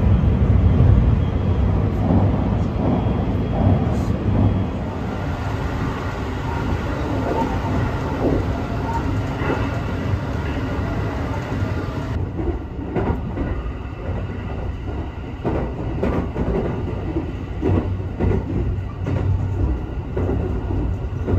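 Sunrise Express sleeper train heard from inside the carriage while running at speed: a steady low rumble of wheels and running gear, with repeated clicks from the wheels over the track in the second half.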